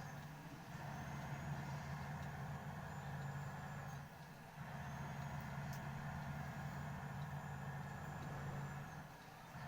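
Car running on the road, heard from inside the cabin: a steady low engine hum with a faint high whine, both easing off briefly twice, about every four and a half seconds.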